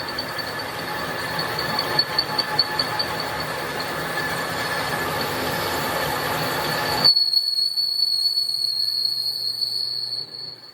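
A power tool working on steel, giving a steady high-pitched metallic squeal over a harsh grinding noise. About seven seconds in the noise cuts off suddenly, and the squeal carries on alone until it fades near the end.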